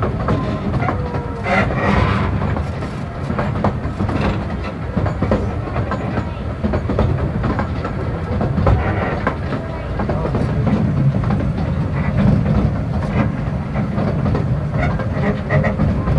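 Narrow-gauge railway carriage on the move, heard from aboard: a steady low rumble of wheels on track with irregular clicks and clacks over the rail joints.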